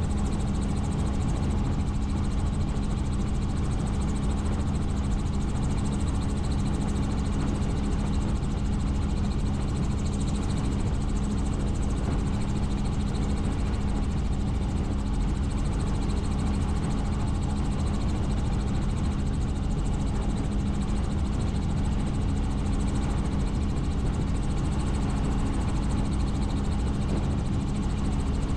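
Helicopter in flight, its turbine and rotors making a steady, unchanging drone with a strong low hum and rumble.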